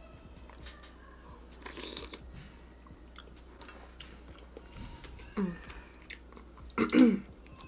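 Close-miked mouth sounds of someone eating mussels: chewing with small wet clicks, and two brief vocal sounds near the end, the second the loudest.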